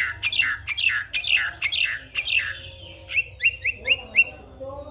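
Javan myna calling: a quick run of harsh, falling notes, about four a second, then after a short pause five short, sharp notes in a row.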